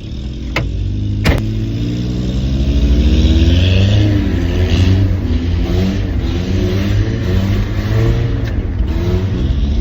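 Mazda pickup truck engine revving up and down over and over as the truck spins donuts, with a bad exhaust leak. There are two sharp knocks in the first second and a half.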